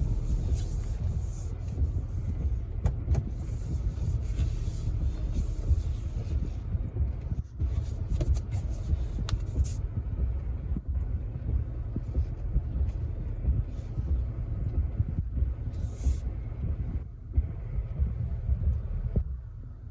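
Low, steady vehicle rumble, with a high hiss over it that stops about halfway through.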